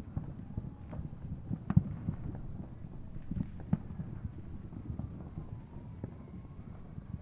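Fireworks going off in the distance: scattered sharp pops and cracks over a low rumble, the loudest pop about two seconds in.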